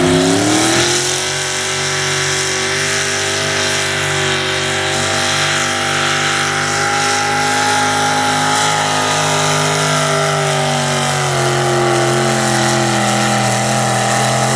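Factory stock diesel pickup truck engine pulling a sled at full throttle. The revs climb in the first second, then hold high and steady, with a slight sag late in the pull.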